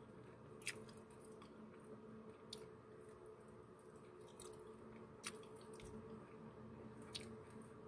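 Faint chewing of food, with a few soft mouth clicks spaced a second or two apart over a low steady hum.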